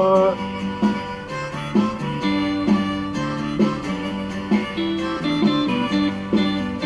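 Instrumental break of a pop backing track: acoustic guitar strumming chords in a lively rhythm, after a last sung word at the very start.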